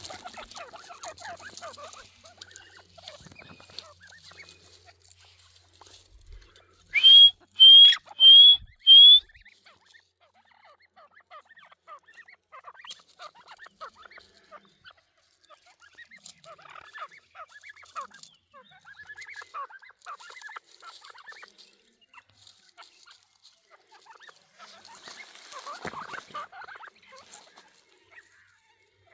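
Irani teetar, a partridge-type game bird, calling: four loud, short whistled notes in quick succession, each sliding up and then holding, with quieter calls from the birds before and after.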